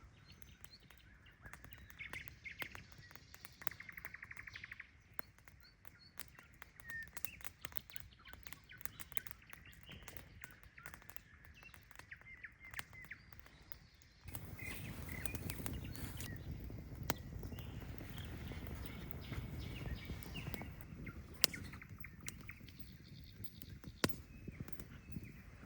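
Small birds chirping, with a fast trill about three to five seconds in, over scattered small clicks. About fourteen seconds in, a steady low rushing noise starts abruptly and continues under further chirps.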